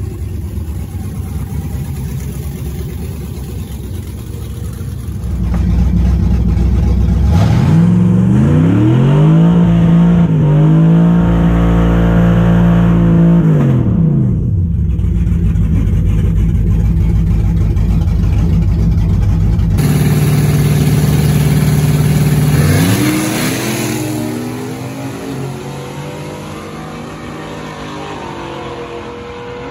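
Drag-racing engine at the track, running steadily, then revving up about seven seconds in, held at high revs for several seconds and falling away; the sound changes abruptly about twenty seconds in, followed by another rev that rises and eases off.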